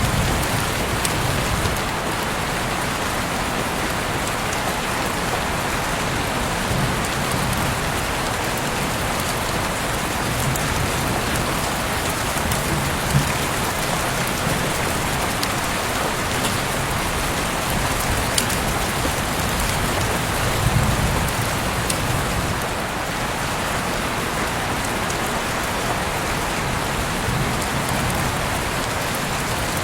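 Heavy rain falling steadily, an even hiss with now and then a sharper drop hit.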